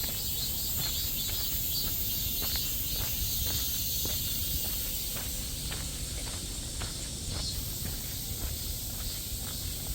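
Footsteps walking along a path, about two steps a second, under a steady high-pitched chorus of summer insects.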